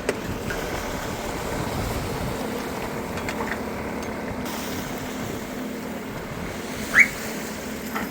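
Hallberg-Rassy 48 sailing yacht underway: water rushing along the hull and wind, with a steady low hum joining about two seconds in. A short rising squeak sounds about seven seconds in.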